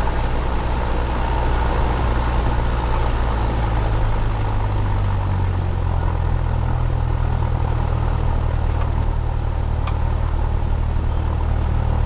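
Cessna 172R's four-cylinder Lycoming IO-360 engine and propeller running at low taxi power, a steady drone whose pitch shifts slightly about four to five seconds in.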